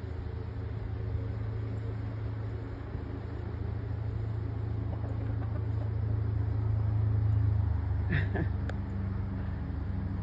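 A steady low motor hum that swells louder toward the end, with a brief higher-pitched sound about eight seconds in.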